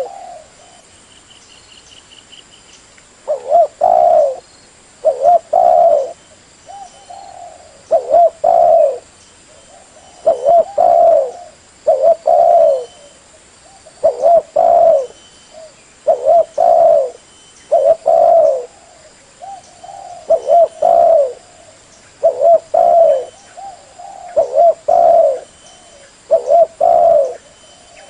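Spotted dove (terkukur) cooing: repeated phrases of two or three low coos, one every one to two seconds, beginning about three seconds in.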